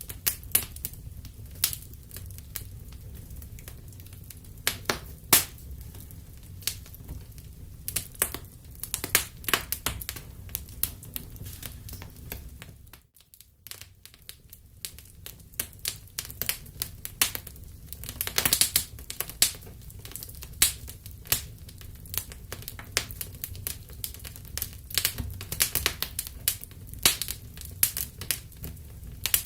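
Wood fire in a fireplace crackling: irregular sharp pops and snaps over a low steady rumble. The sound drops almost to silence for about a second near the middle.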